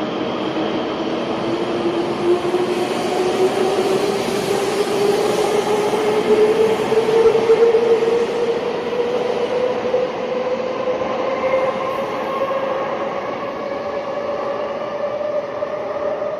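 Electric train accelerating: a motor whine rising slowly and steadily in pitch over the steady rushing noise of the train.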